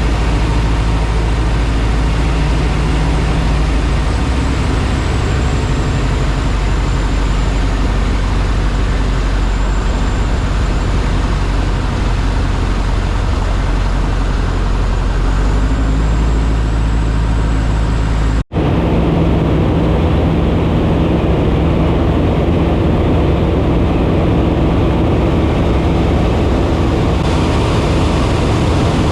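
Piper Super Cub's piston engine and propeller running steadily in flight, a loud constant drone as heard from the cockpit. About two-thirds through it cuts out for an instant and resumes with a slightly different tone.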